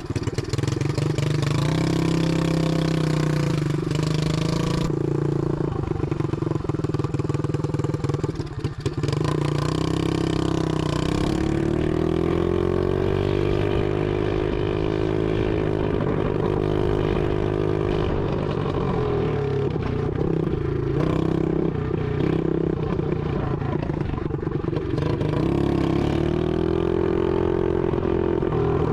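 Single-cylinder four-stroke engine of an SSR 125 automatic dirt bike running loud, its engine speed rising and falling as it is ridden, with a brief dip about a third of the way in. The muffler is not connected to the exhaust pipe, which makes it very loud.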